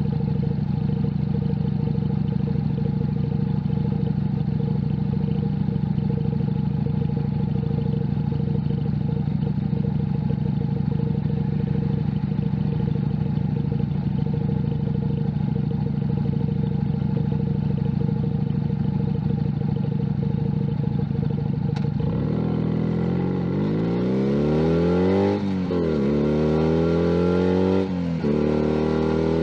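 Junak M11 Cafe's 125cc single-cylinder engine running steadily at a constant pitch. About three quarters of the way in, it pulls away, its pitch rising through the gears with two quick drops at the gear changes.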